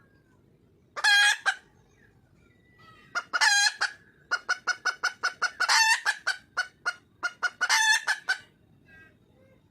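Red junglefowl hen calling for a mate: two short calls about one and three and a half seconds in, then a rapid run of short clucking notes, about five a second, broken by two longer drawn-out notes.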